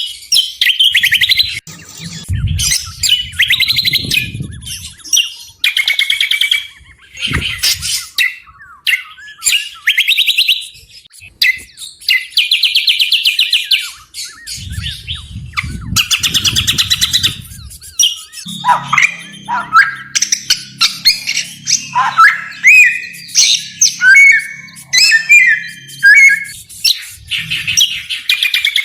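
Small songbirds singing loudly and almost without pause in rapid, harsh chattering trills and sharp shot-like notes. In the second half, quick downward-slurred whistles join in.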